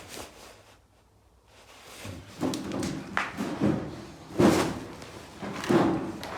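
A few irregular thuds and knocks after a short quiet spell, the loudest about four and a half and nearly six seconds in.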